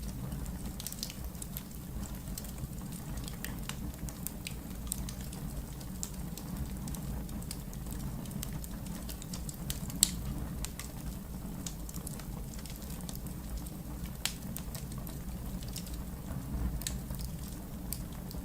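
Wood fire in a fireplace crackling over a steady low rumble, with scattered sharp snaps and a louder pop about ten seconds in and another about four seconds later.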